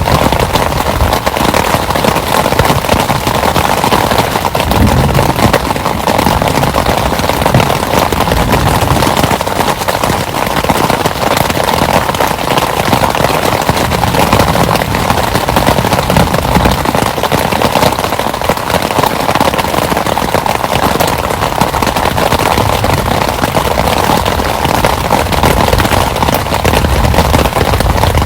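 Heavy rain falling steadily, a loud, dense crackle of countless drops striking a surface, with low rumbles swelling and fading now and then.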